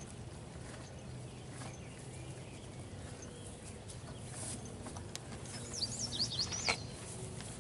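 A small bird chirps a quick run of high notes that rise and fall near the end, over steady outdoor background noise. Horses pulling at hay make faint rustles.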